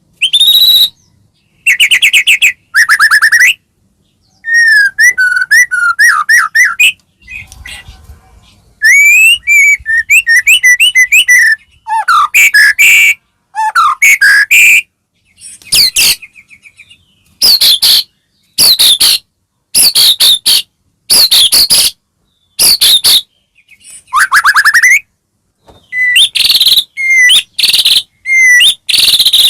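White-rumped shama (murai batu) singing: loud, varied phrases of clear whistles, quick trills and rapid up-and-down sweeps, each phrase cut off sharply with silence between, in full song as a bird excited to sing.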